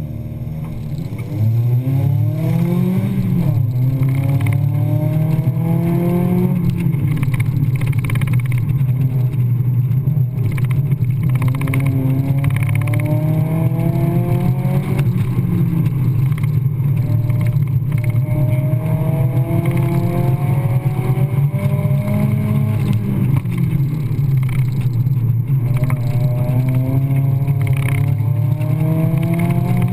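A 1997 Mazda Miata's 1.8-litre four-cylinder engine, heard from the open cockpit, launches about a second and a half in, then revs up and falls back again and again as the car accelerates, lifts and shifts through an autocross run.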